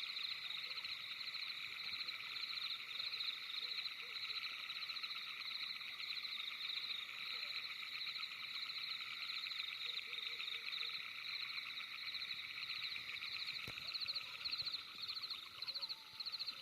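A dense night chorus of frogs calling steadily, many rapid pulsed trills overlapping into a constant shimmering din.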